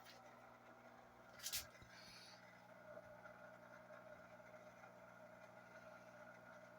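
Near silence: a faint steady hum, with one sharp click about a second and a half in.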